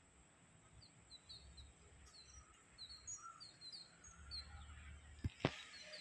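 Small birds chirping faintly, a string of short high chirps over a low background hum, with two sharp clicks about a second before the end.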